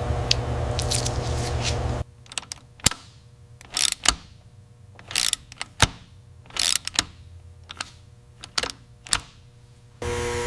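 A steady hum for about the first two seconds, cut off abruptly, then an irregular run of sharp clicks and taps with a few short scrapes, until a steady hum returns near the end.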